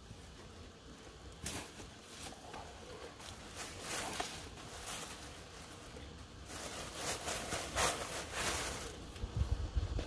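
Intermittent rustling and handling noises, with a few low thuds near the end.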